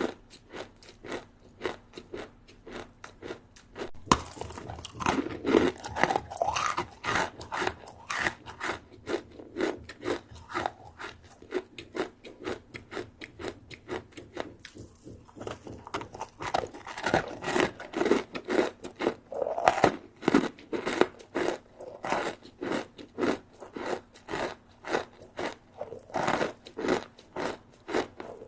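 Close-up chewing of a crispy rice snack (rice crisps or guoba rice crackers): a steady run of sharp crunches, several a second, with a brief lull about halfway through.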